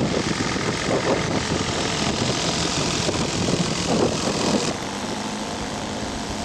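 Radio-controlled scale model airplane engine running with its propeller, heard through heavy wind buffeting on the microphone. The haze of engine and wind noise eases a little about two-thirds of the way through.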